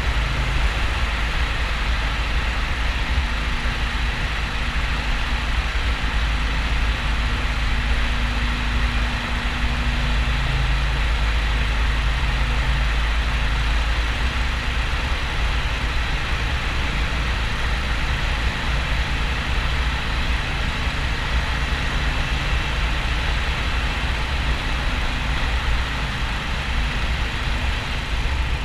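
Steady rush of wind on the microphone of a Harley-Davidson XL1200N Sportster at motorway speed, with the air-cooled 1200 cc V-twin engine droning underneath.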